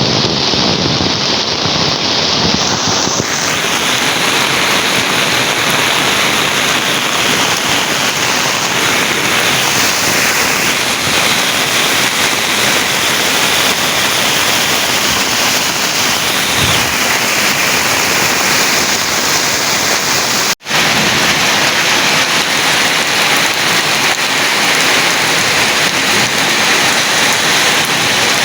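Heavy rain falling steadily, an even hiss that cuts out for a split second about twenty seconds in.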